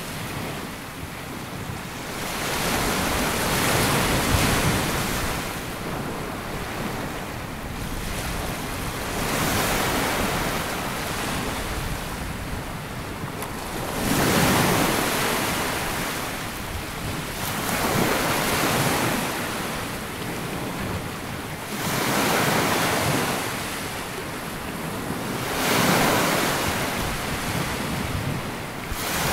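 Sea waves breaking and washing up a sandy beach, swelling and falling back about every four seconds. Wind buffets the microphone.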